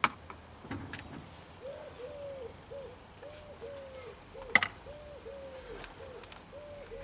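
A bird calling in a steady run of short, low hooting notes, about two a second, starting about a second and a half in. Two sharp clicks, the loudest sounds, come at the very start and about four and a half seconds in, with fainter clicks around the first second.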